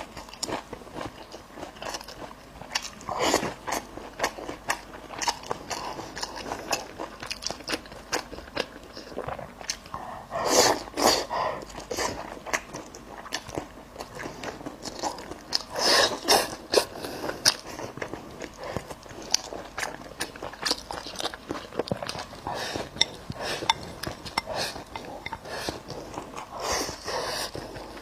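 Close-miked biting and chewing of braised goat ribs: a steady run of short wet clicks and crunches, with louder bouts of biting a few times.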